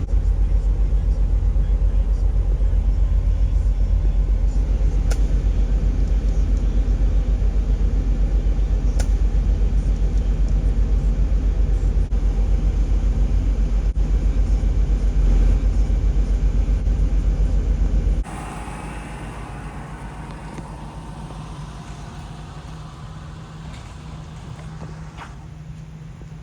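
Car driving, heard from inside: a steady, loud low road rumble that drops suddenly to a much quieter hum about eighteen seconds in.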